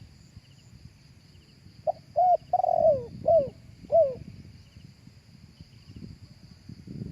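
Spotted dove cooing: one phrase of five short coos, each bending up and then falling, the middle one longer, starting about two seconds in. A faint steady high-pitched drone and soft, quick chirps run underneath.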